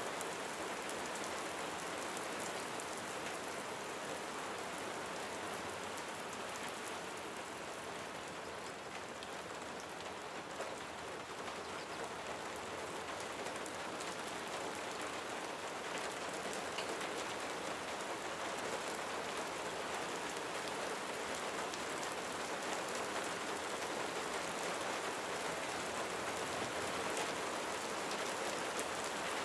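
Steady rain falling on a roof, an even patter of many fine drops.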